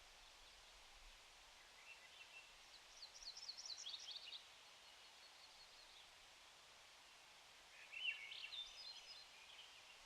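A small songbird sings two short phrases of rapid high twittering notes, one a couple of seconds in and one near the end, over a faint steady outdoor hiss.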